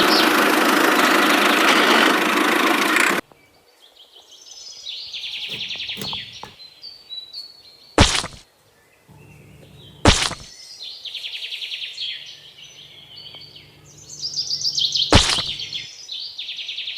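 A loud hiss that cuts off abruptly about three seconds in, then birds chirping in short repeated trills, broken by three sharp clicks.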